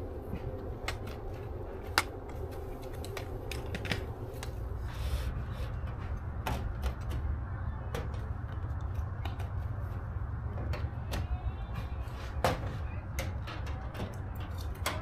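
Irregular light clicks and knocks, a few of them sharper, over a steady low rumble.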